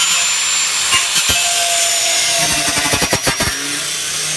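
Power tool cutting metal on a car's body, running steadily with a faint high whine, with a quick run of rattling knocks about three seconds in.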